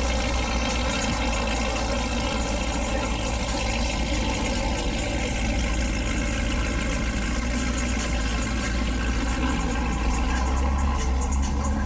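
Car engine idling steadily, with a deep, even low-pitched drone.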